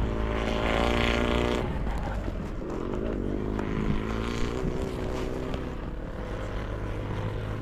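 Sidecar motocross motorcycle engines running at high revs as outfits pass on the track, one after another, easing off toward the end.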